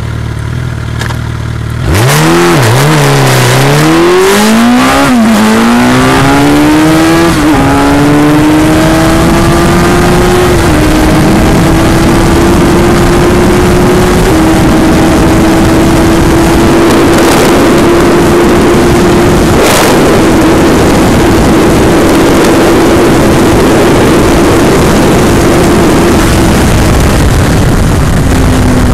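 Suzuki Hayabusa K9's 1340 cc inline-four, breathing through a Yoshimura TRC exhaust, ticks over and then launches at full throttle about two seconds in. It revs up through the gears, the pitch dropping sharply at each upshift, then holds a long, slowly rising high note in top gear under heavy wind rush, and falls away near the end.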